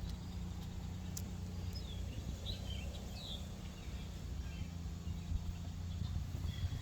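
A few short, high bird chirps over a steady low rumble of outdoor background noise.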